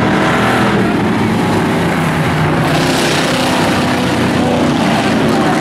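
Several racing trucks' engines running hard together on a dirt track, a loud mix of engine pitches over a steady rush of noise that swells about two and a half seconds in.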